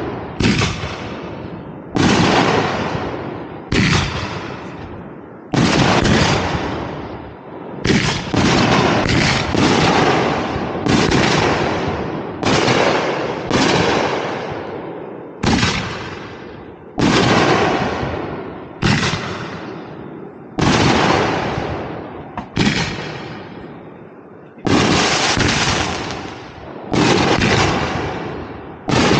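Aerial fireworks bursting overhead in a steady volley: a sharp bang about every second, sometimes two in quick succession, each trailing off over about a second.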